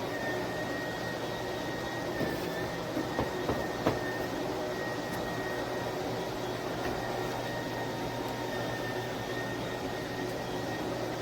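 Cordless electric spin mop's motors running steadily, a hum with a high, even whine, with a few light knocks about two to four seconds in.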